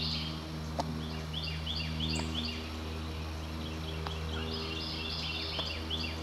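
A songbird sings two runs of quick, repeated, high falling notes, a couple of seconds apart, over a steady low drone.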